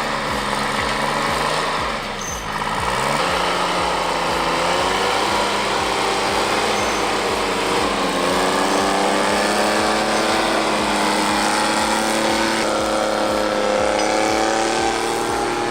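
An engine running steadily, its pitch drifting slowly up and down, over a regular low pulse.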